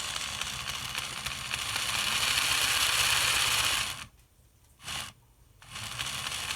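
A small geared mechanism whirring and rattling steadily, growing louder toward the middle. It cuts out about four seconds in, gives one short burst, then starts up again.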